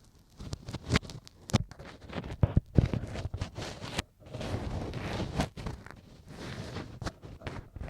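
Ear pick scraping and tapping against a microphone's ear, heard very close: crackly scratching with many sharp clicks and a few louder thuds a little past two seconds in.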